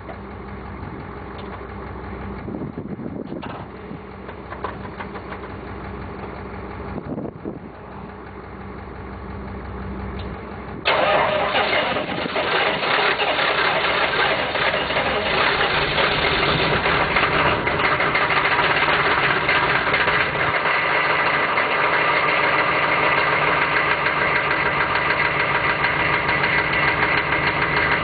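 1993 Chevrolet 6.5-litre turbo diesel V8 being cranked over by its starter on a cold start with booster help. After about eleven seconds it fires suddenly and settles into a steady, loud diesel idle.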